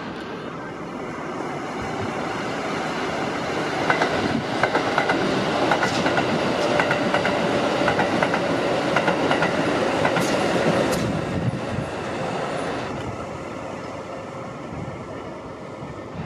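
Red-and-white Kintetsu electric commuter train running past on elevated track. The rumble swells as it comes close, with a run of wheel clicks over rail joints in the middle, then fades as it pulls away, leaving a thin steady tone near the end.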